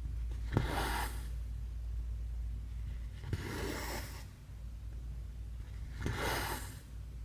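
Cross-stitch needle clicking through the fabric, each time followed by the thread being pulled through with a brief rasping rustle. It happens three times, about every two and a half seconds, over a steady low hum.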